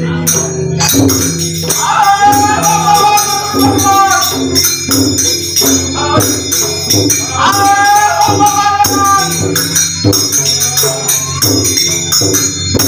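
Devotional bhajan music: a steady rhythm on drum and jhaal hand cymbals, with two long sung phrases, one about two seconds in and another about eight seconds in.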